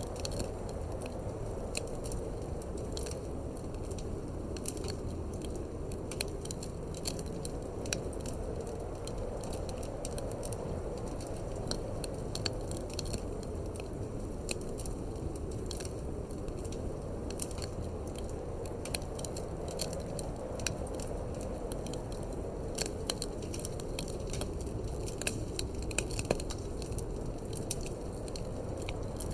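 Wood fire crackling in a fireplace, with frequent short, sharp pops over a steady low rushing background.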